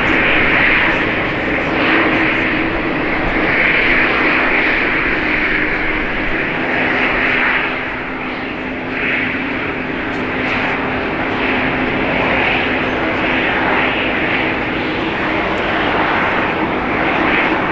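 Jet airliner engines running loud and steady, with a constant low hum under a rushing noise that swells and fades a little.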